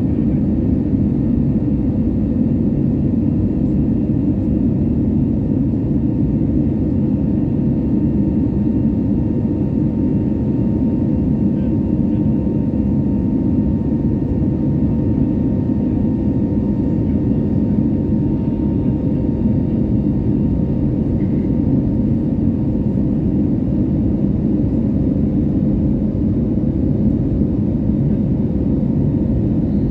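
Airbus A320neo's Pratt & Whitney geared turbofan engines heard from inside the passenger cabin: a steady low rumble with a faint, steady whine above it.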